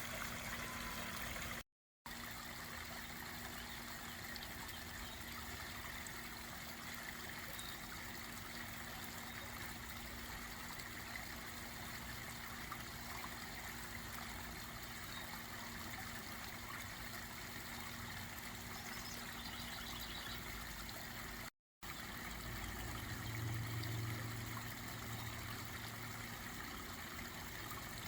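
Steady running and trickling water from a garden pond waterfall. It cuts out twice for a moment, and a low rumble joins it after the second break.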